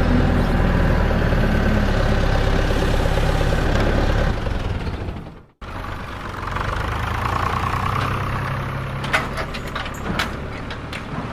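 Engine running steadily. It cuts off abruptly about five and a half seconds in, then a second stretch of running follows, with sharp clicks or knocks near the end.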